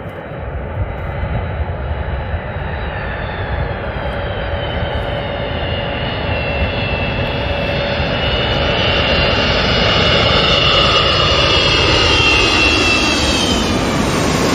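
Jet aircraft's turbofan engines passing close, growing steadily louder, with a high whine that slowly falls in pitch.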